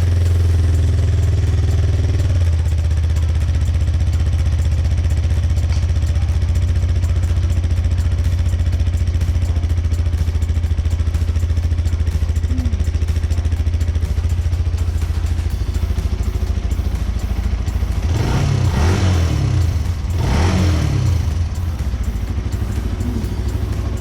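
Benelli TNT 150i's fuel-injected single-cylinder engine idling steadily through its stock exhaust, then blipped twice near the end, each rev rising and falling back to idle. The exhaust note is subdued, which the rider puts down to a catalytic converter in the stock exhaust.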